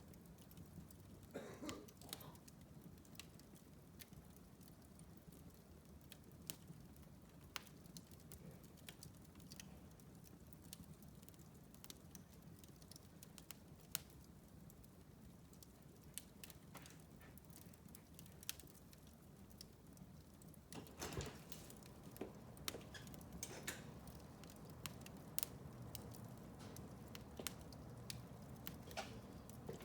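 Wood fire burning in a fireplace: soft, irregular crackles and sharp pops over a low, steady rumble of the flames, with a louder flurry of crackling about two-thirds of the way through.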